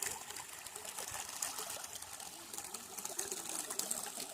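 Small mountain stream babbling and trickling over stones, a steady watery rush with many small quick gurgles and clicks.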